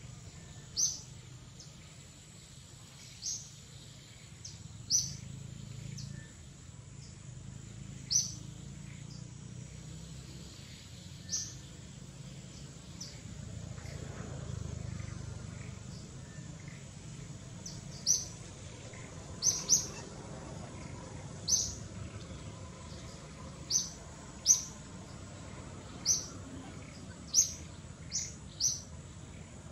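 A small bird's short, high chirps, about fifteen in all, at irregular intervals and coming more often in the second half, over a low steady background rumble.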